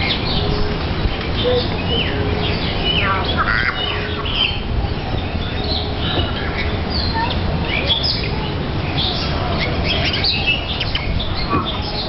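Aviary birds calling over one another, mynahs' warbled chatter among them: a dense run of short chirps, whistles and squawks.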